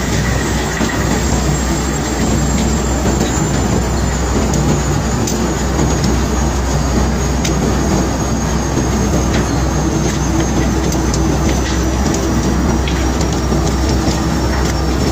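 Bulk-cargo unloading machinery running steadily, a continuous mechanical rumble with a low hum and scattered small clicks and knocks of stones, with a faint high whine that slowly drops in pitch.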